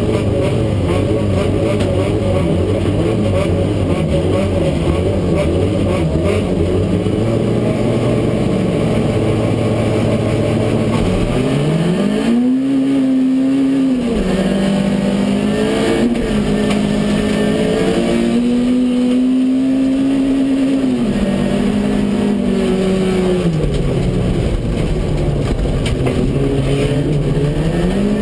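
Citroën AX GTI race car's four-cylinder engine heard from inside the cabin. It runs steadily while the car waits on the start grid, then revs up hard at the launch about eleven seconds in. After that the engine pitch climbs and drops repeatedly through gear changes and lifts while the car races on dirt.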